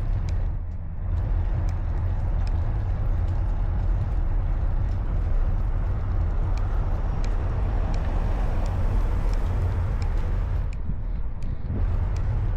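Steady deep rumble of wind on the microphone and road noise from a moving bicycle, with motor traffic going by; the traffic noise swells about eight seconds in.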